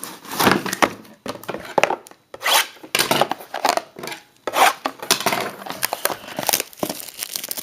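Cardboard trading-card box being handled, with irregular scraping, rubbing and knocks of cardboard and packaging close to the microphone.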